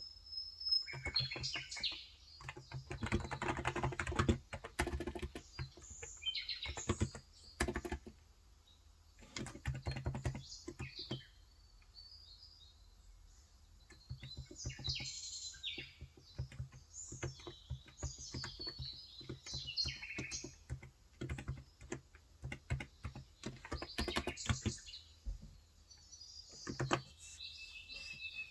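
Typing on a Cox Endeavor 35 g electro-capacitive (Topre-style) keyboard, in bursts of fast keystrokes with brief pauses. Small birds chirp repeatedly in the background throughout.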